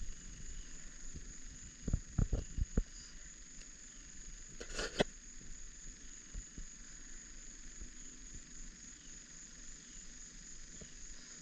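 Crickets chirring steadily in a high, even drone, with a few low thumps about two seconds in and a sharp click near the middle.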